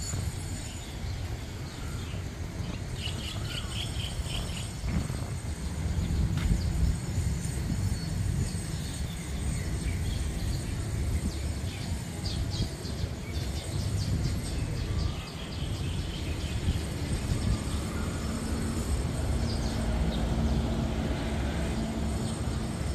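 Birds chirping in short runs over a steady low rumble, with a faint steady hum coming in about two-thirds of the way through.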